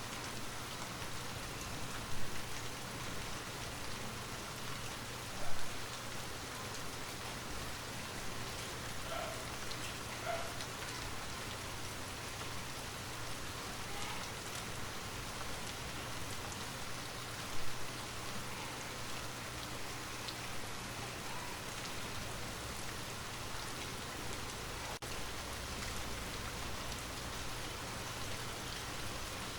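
Steady rain falling, an even hiss of many drops. Three brief, louder knocks stand out: about two seconds in, about five and a half seconds in, and near seventeen and a half seconds.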